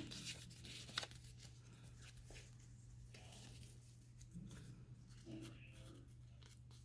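Quiet handling of paper craft pieces: a couple of soft taps and faint rustles, one about a second in, over a faint steady hum.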